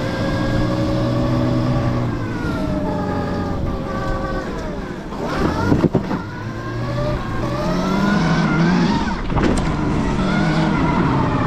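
Electric dirt bike riding, its motor whine rising and falling in pitch with the throttle, with several sharp sweeps as it passes through traffic.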